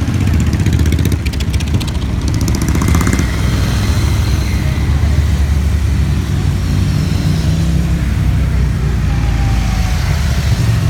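Stream of motorcycles passing by, engines running in a steady low rumble, with a rapid high ticking over the first three seconds or so.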